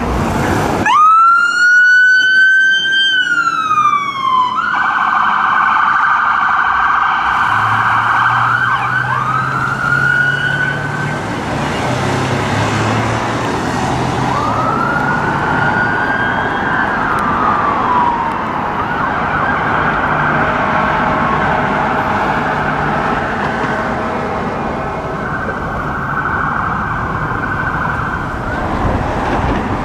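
Emergency vehicle sirens responding: a wail rises, holds and falls, then a fast yelp takes over, with another wail sweeping up and down midway. A vehicle engine runs underneath.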